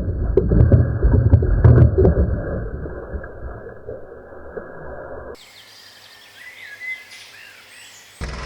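A low, engine-like rumble with sharp clicks fades away over about five seconds. It cuts to a quiet outdoor stretch with one short bird chirp, and a low engine rumble cuts back in near the end.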